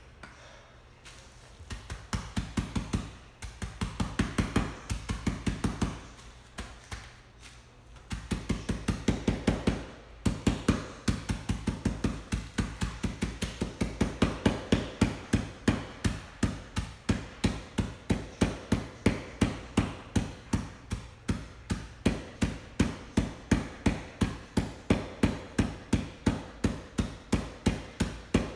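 Rapid, repeated pounding blows, about three to four a second, smashing pretzels into crumbs, with a quieter pause about six seconds in and a brief break near ten seconds.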